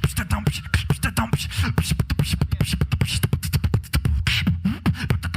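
Solo beatboxer performing: a fast, dense run of vocal kick drums, snares and hi-hat clicks over a steady low bass.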